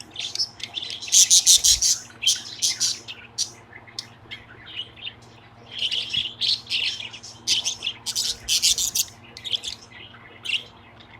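Budgerigar chirping and chattering in quick flurries of short, high calls, with a couple of pauses between.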